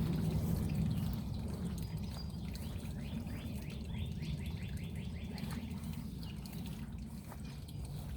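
A bird sings a quick trill of about ten short falling notes about three seconds in, over a steady low rumble and a faint trickle of water.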